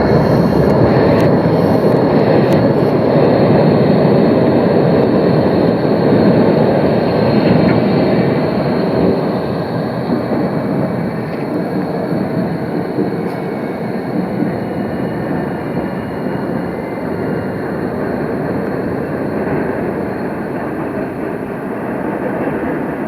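Tram running past on the rails: a steady rumble of wheels and running gear, with a faint high whine on top. It eases off a little after about nine seconds.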